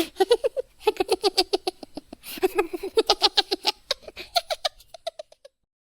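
High-pitched cartoon Minion voices giggling in quick, rhythmic bursts of laughter, several runs in a row, stopping abruptly about five and a half seconds in.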